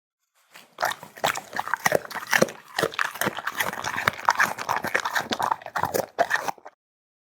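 A pet chewing and crunching food off skewers in quick, noisy bites, starting about a second in and stopping shortly before the end.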